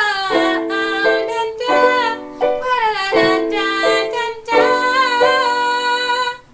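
Piano chords under a girl's voice singing long, wavering notes without clear words, closing out a song; the music stops abruptly near the end.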